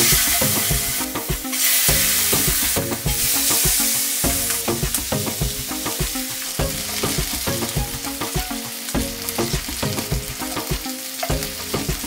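Boneless chicken thighs sizzling in hot olive oil in a stainless-steel frying pan as the pieces are laid in. The sizzle starts suddenly loud, dips briefly twice as pieces go in, and settles a little quieter after about four seconds.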